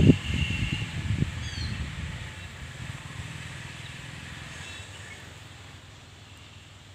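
Bird calls over quiet outdoor background: a short high whistle near the start, then a few quick falling chirps about a second and a half in. A low rumble at the start fades away over the first few seconds.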